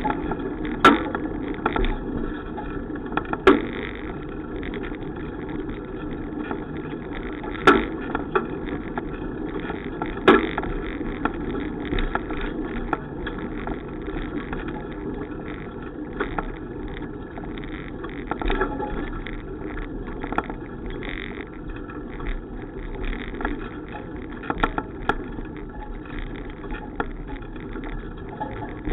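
Steady rushing noise of a bicycle ride, wind and tyre noise, broken by sharp knocks and rattles scattered throughout, the loudest of them in the first ten seconds.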